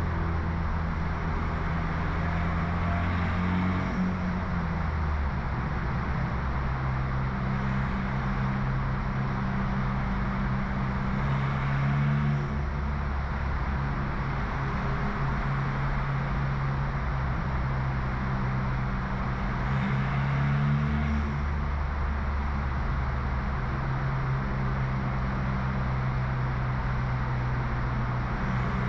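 BMW F30 328i's turbocharged four-cylinder engine, stage 2 tuned with a loud aftermarket exhaust, droning steadily under way. Its pitch shifts a little a few times with throttle and gear changes.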